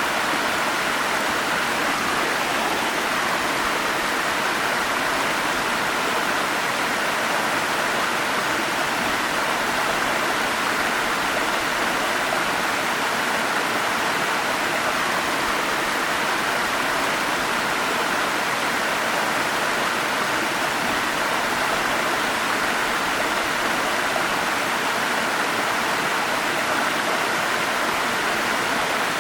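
Forest stream rushing steadily: an even, unbroken hiss of flowing water, strongest in the middle of the range.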